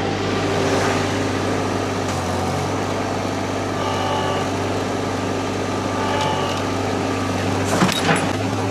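Mini skid steer engine running steadily, with a few sharp knocks about eight seconds in.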